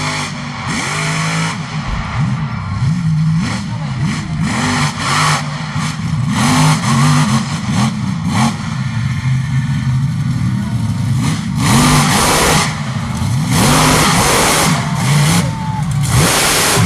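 Monster truck engine revving again and again, the pitch swooping up and dropping back every second or so, with loud bursts of rushing noise over it, the biggest in the second half.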